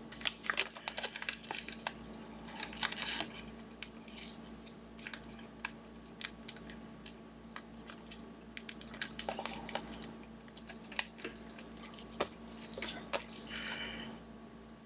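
Trading cards and their plastic packaging being handled: scattered light clicks and taps with bursts of rustling, loudest about a second in, around three seconds and near the end, over a faint steady hum.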